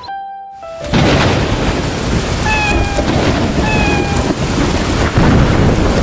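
Heavy rain with thunder, a loud steady rush that starts suddenly about a second in after a brief fading musical note. Two short, slightly falling kitten meows sound through the rain near the middle.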